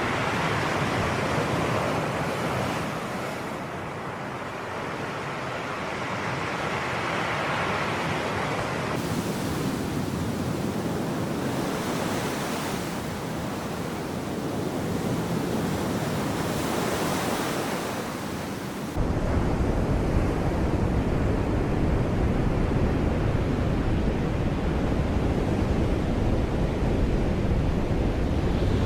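Sea waves breaking and washing ashore, the surf noise swelling and easing every few seconds. About nineteen seconds in a deep rumble comes in suddenly and stays.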